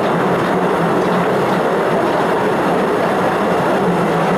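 Postojna Cave tourist train running along its track, heard from an open passenger carriage: a steady, loud rumble and rattle of wheels and cars, with a low, even hum underneath.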